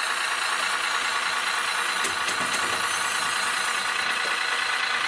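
Steady rush of running water while toy cars are washed, with a few light knocks about two seconds in.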